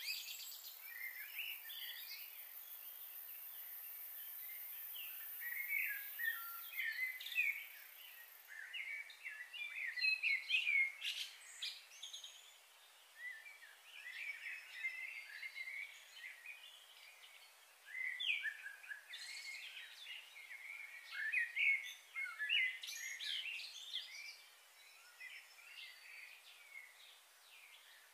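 Birds chirping in quick, short calls, coming and going, with a faint steady high-pitched whine during roughly the first eight seconds.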